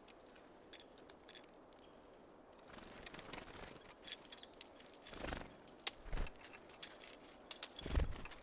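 Small birds busy at a seed feeder: after a quiet start, a run of sharp clicks and taps from about three seconds in, with three soft wing-flutter thumps.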